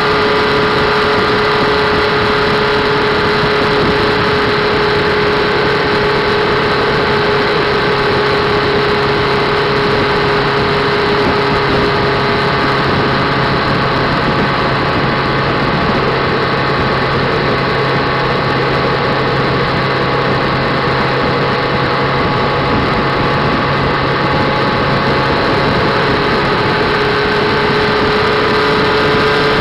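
Motorcycle engine running steadily at cruising speed, heard from the bike itself with wind and road noise. Its pitch sags slightly through the middle and climbs again near the end.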